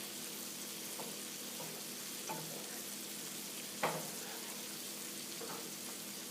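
Mushroom Marsala cream sauce sizzling steadily in a sauté pan at the boil, with a few light knocks, the sharpest a little past the middle.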